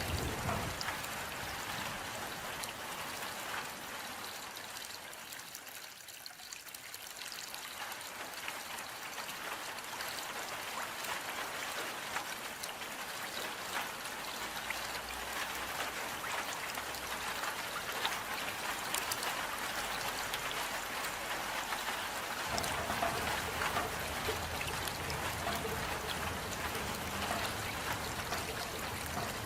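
Steady rain, with many separate drops heard as small sharp ticks over a continuous hiss of water. It eases briefly about six seconds in, then fills out again.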